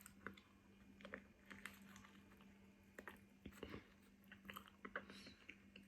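Faint chewing of food close to the microphone, with soft, irregular clicks from the mouth.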